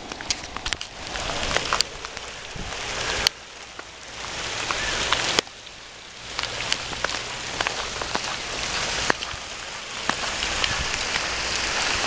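Hailstones pelting down hard, a dense hiss of impacts with many sharp individual clicks of stones striking. The hiss dips suddenly about three seconds in and again about five seconds in, then builds back up.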